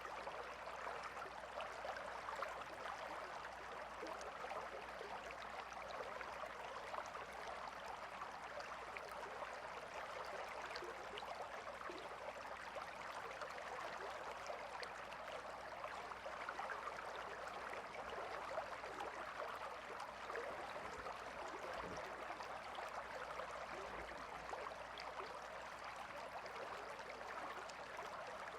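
A calm river flowing steadily: an even, continuous rush and babble of water.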